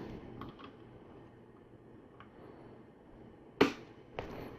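LEGO plastic pieces clicking and tapping as they are handled and set down: a few faint clicks, then a sharp click about three and a half seconds in and another half a second later.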